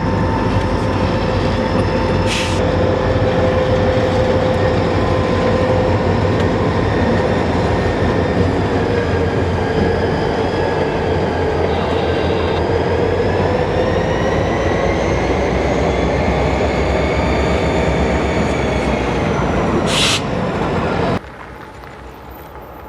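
Freight train rolling past close by: a steady rumble of wheels on rail with several sustained squealing tones that drift slowly in pitch, cut off suddenly near the end.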